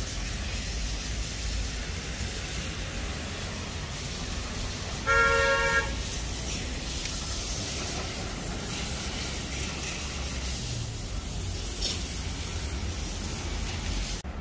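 A vehicle horn honks once, a short blast just under a second long, over a steady rushing background noise.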